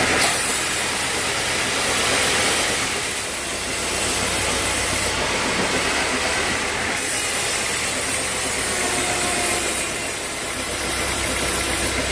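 Sawmill machinery running steadily: a continuous low drone under a loud, even hiss, with no clear pauses or strokes.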